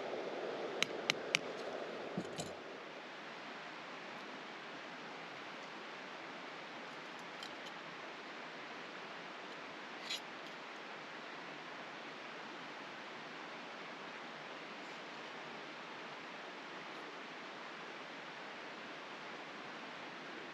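Small creek flowing steadily, a constant rushing of water. A few sharp clicks come about a second in and another short one near the middle.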